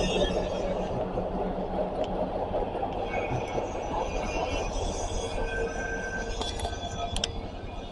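Amtrak diesel locomotive idling steadily at a station stop, a low rumble with a few held tones. A couple of sharp clicks come near the end.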